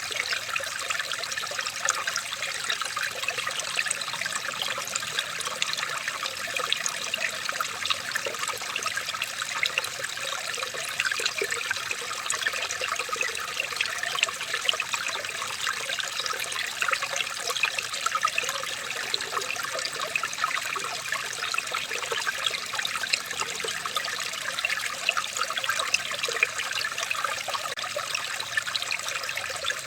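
Running water trickling and bubbling steadily, a dense patter of small splashes that never lets up.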